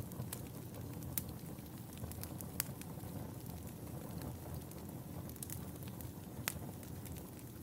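Fire crackling in a fireplace: a steady low rumble of burning with sharp pops and snaps scattered through it. The loudest snaps come about a second in, near three seconds and near six and a half seconds.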